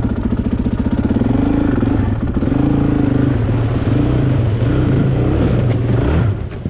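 Dirt bike engine revving up and down repeatedly, then falling away suddenly about six seconds in.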